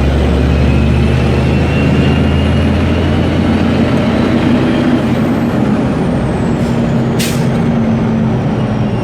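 Steady road and engine noise of a vehicle driving, heard through a dash cam, with a brief sharp hiss about seven seconds in.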